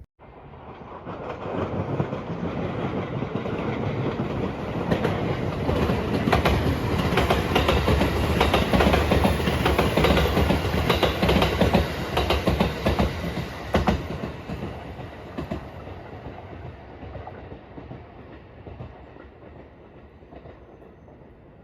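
A train passing close by at speed, its wheels clicking over the rail joints. The sound builds over the first couple of seconds, is loudest in the middle and fades away over the last several seconds.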